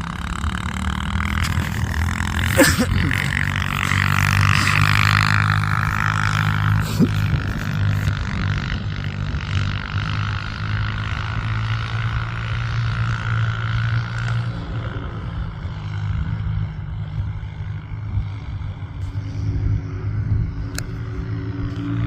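Dirt bike engine running steadily while towing a sled, its note wavering a little with the throttle, with a sharp knock about three seconds in.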